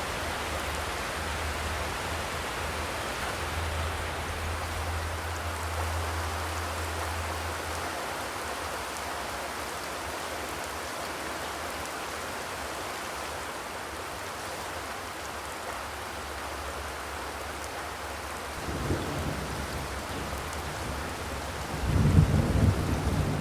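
Steady rain drumming on a zinc roof, an even hiss. A low rumble swells about three-quarters of the way through and a louder one comes near the end.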